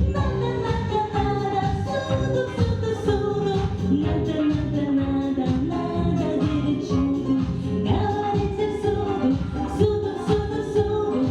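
A girl singing a Russian song over a backing track with a steady beat, holding long, sliding notes.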